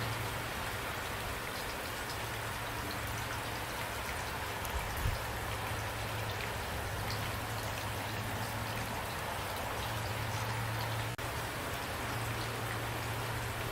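Steady rain falling, with single drops heard as small ticks over an even hiss.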